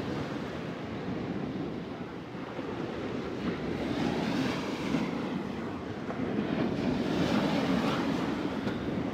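Surf washing onto a sandy beach, swelling twice, with wind rumbling on the microphone.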